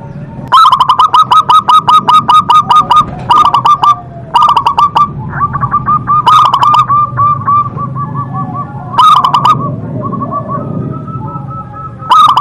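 Zebra dove (perkutut) singing: runs of short, ringing coo notes, first a long fast run of about eight notes a second, then shorter bursts every second or two, with softer notes between.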